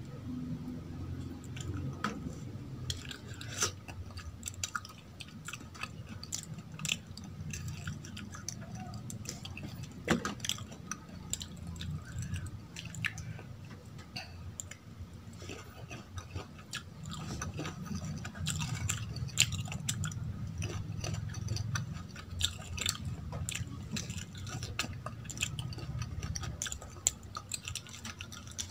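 Close-miked chewing of soft idli soaked in sambar, with wet mouth sounds and many short sharp clicks and smacks scattered throughout.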